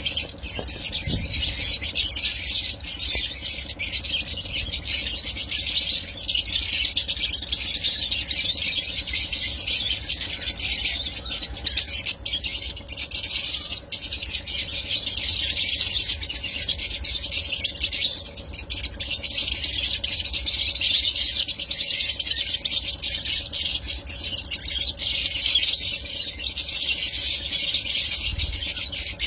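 Lovebirds chattering and squealing without pause, a dense high-pitched din of many birds calling at once.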